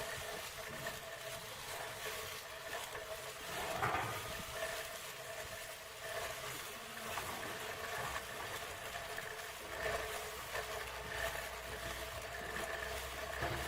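Electric sheep-shearing handpiece running with a steady whine and hum, swelling briefly louder about four seconds in.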